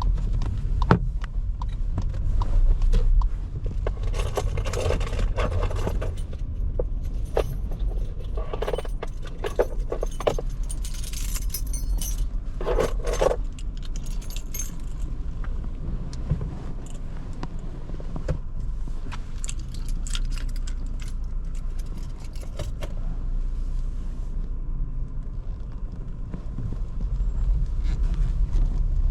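Low rumble of a Škoda Kamiq's 1.0 TSI three-cylinder engine and tyres heard from inside the cabin at low speed, with several short bursts of light metallic jingling and clicking, about four seconds in and again around the middle.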